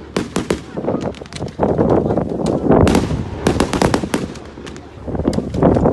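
Fireworks going off in quick, irregular volleys of sharp cracks and bangs, with crackling runs between them and a short lull near the end.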